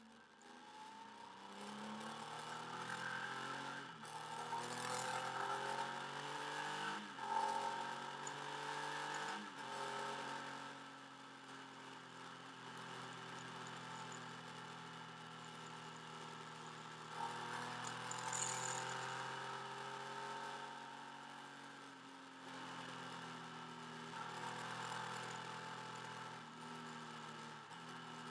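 Motorcycle engine under way, heard through the bike-mounted camera's mic. Its note shifts in pitch with several abrupt steps in the first ten seconds, as with gear changes, then runs steadier. Wind rush runs along with it.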